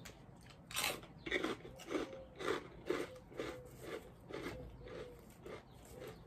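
Close-up crunching and chewing of hurricane popcorn, popcorn mixed with crisp Asian rice crackers, about two chews a second, starting about a second in.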